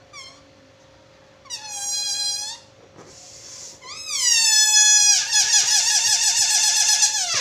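Rubber balloon squealing in high, wavering squeals: a short chirp, then two squeals of about a second each, then a longer, louder squeal in the last two seconds.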